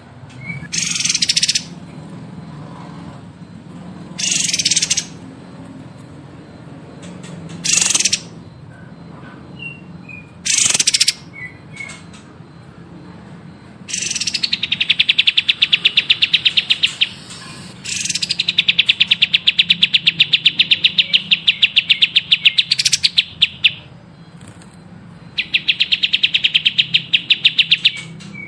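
Songbird singing: short harsh, hissing bursts every few seconds, then long rapid trills of quick evenly repeated high notes, each held for several seconds. A steady low hum runs underneath.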